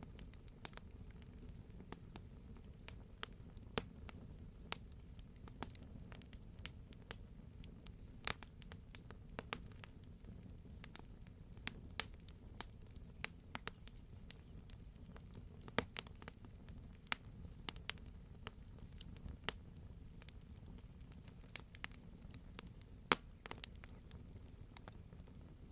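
Campfire crackling: irregular sharp pops and snaps of burning wood, a few every second, over a soft low rumble of the flames, with one louder pop near the end.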